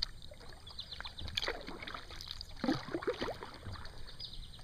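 Kayak paddle strokes on a 17-foot kayak: the blades dipping and splashing in the water in irregular bursts.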